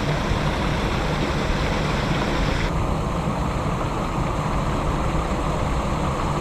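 Steady rumbling noise of wind and heavy rain on the microphone. About three seconds in, the higher hiss drops away abruptly while the low rumble goes on.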